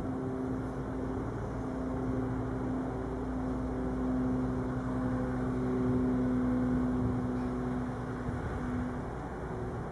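A train running with a steady, constant-pitch mechanical hum over a low rumble, swelling slightly midway and easing near the end.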